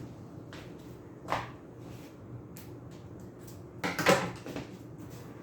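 A box fan blade being trimmed by hand to rebalance it. A few short snaps and clunks are heard, a small one about a second in and the loudest near four seconds in.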